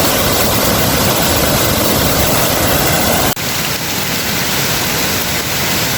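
Loud, steady rush of heavy rain and flowing floodwater, with a sudden brief drop-out about halfway through.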